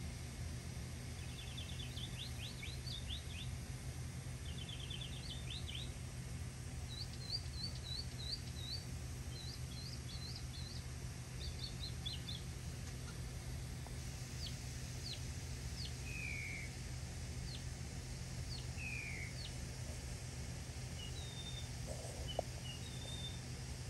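Small songbirds chirping: two rapid trills of short high notes in the first few seconds, then runs of sharp chirps and scattered single calls. A steady low hum runs underneath.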